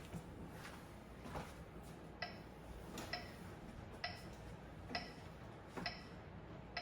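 Metronome ticking at a steady slow tempo, about one click every 0.9 seconds, starting about two seconds in; a few soft knocks come before it.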